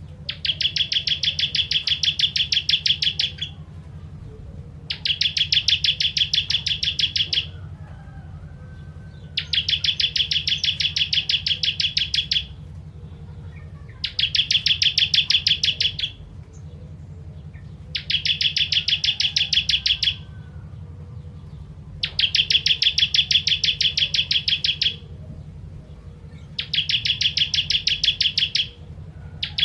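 Ciblek kristal, a bar-winged prinia, singing in bursts of very rapid repeated notes. There are about seven bursts of roughly three seconds each, with short pauses between, over a steady low hum.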